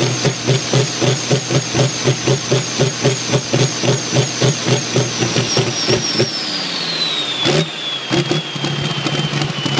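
Turbocharged diesel engine of a Ford 8000 pulling tractor idling with a loping beat, about four pulses a second, under a high turbo whistle. About six seconds in the engine beat drops away and the turbo whine falls steadily in pitch as it spins down, with a single knock and some weak, uneven firing near the end.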